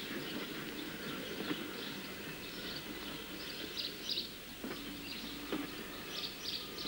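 Birds chirping in short repeated bursts over a steady background hiss, with a few faint knocks.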